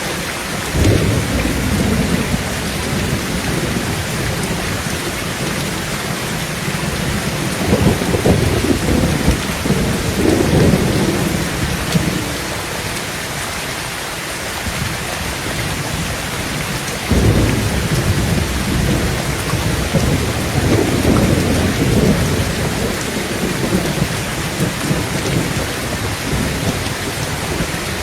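Heavy rain pattering steadily on a tin tent roof, with low rolls of thunder rumbling three times: about a second in, again around eight to eleven seconds, and a longer roll from about seventeen seconds.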